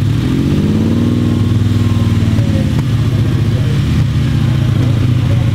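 Classic sports car's engine running at low revs with a deep exhaust note as the car moves off slowly. Its pitch rises and eases back down over the first couple of seconds, then holds steady.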